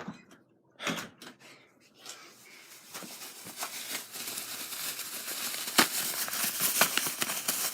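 Crinkling, rustling handling noise with scattered sharp clicks, growing steadily louder from about two seconds in.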